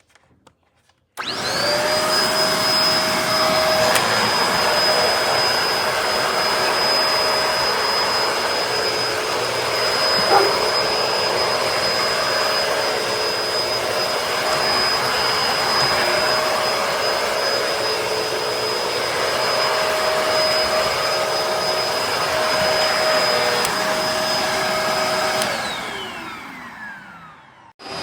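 Bissell MultiClean Allergen Pet upright vacuum switched on about a second in and running steadily with a high whine. Near the end it is switched off, and its pitch falls as the motor spins down.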